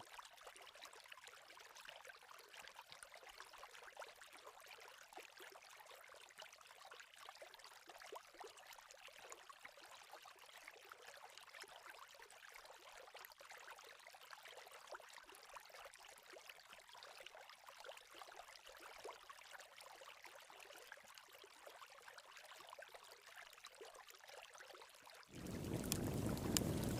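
Faint trickling of flowing water with light ticking flecks. Near the end a much louder, steady rush of water cuts in abruptly.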